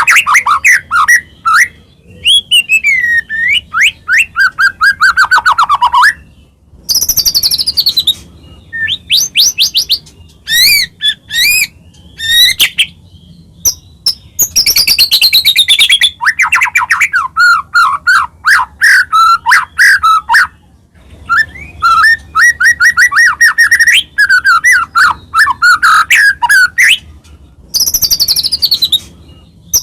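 White-rumped shama in full, continuous song: fast, varied phrases of clear whistles, rapid trills and buzzy notes, broken by short pauses about every seven seconds. This is the kind of song that is played to captive shamas to provoke them into singing.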